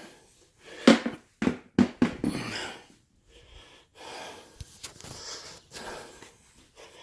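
Wheezy breathing close to the microphone, with a few short sharp sounds in the first half, then soft breathy hiss coming and going.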